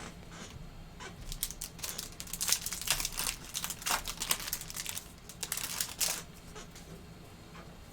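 Trading-card pack wrapper being torn open and crinkled, a quick run of crackling rustles for about five seconds that dies down near the end.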